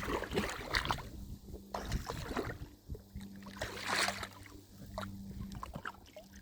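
Shallow seawater sloshing and splashing in irregular bursts, with a few sharp clicks and a faint steady low hum underneath.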